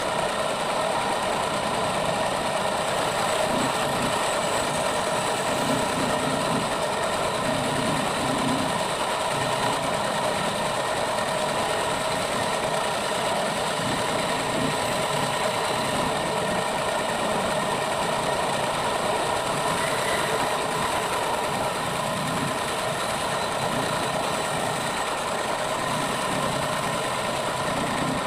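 A woodworking machine's electric motor running steadily: a constant hum with no change in pitch or level.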